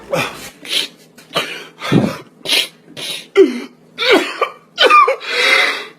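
A person coughing and clearing the throat over and over: about ten short, harsh bursts, some with a brief voiced groan.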